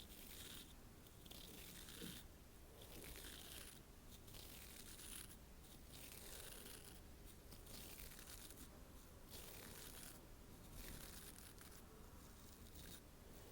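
Faint hissy brushing strokes close to the microphone, about one a second.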